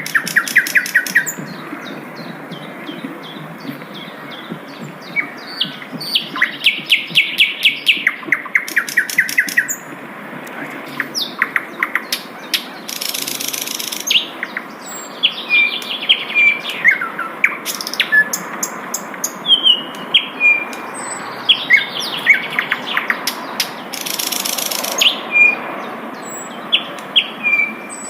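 Sikatan londo flycatcher singing: quick trains of sharp repeated notes mixed with short whistles and downslurred notes, with two brief harsh, rasping bursts in the middle and near the end.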